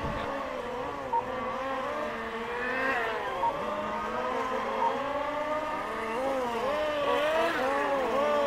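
Several radio-controlled model race cars running a heat, their motors whining in overlapping pitches that rise and fall as they accelerate and brake around the track. A few short beeps sound in among them.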